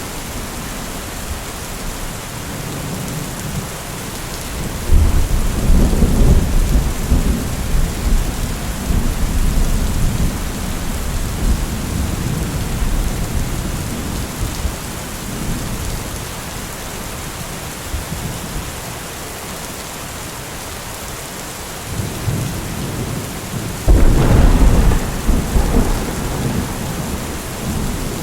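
Steady rain falling, with two rolls of thunder: a low rumble swelling about five seconds in and dying away over several seconds, and a second one breaking in sharply near the end.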